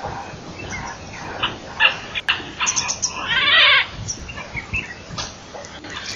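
Wild birds chirping and calling, with one loud, harsh call lasting about a second just past the middle. A couple of sharp clicks come shortly before it.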